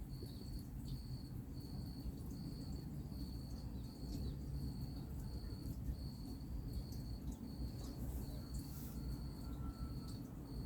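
A cricket chirping in an even rhythm, about one high chirp every three-quarters of a second, over the steady low rumble of distant highway traffic.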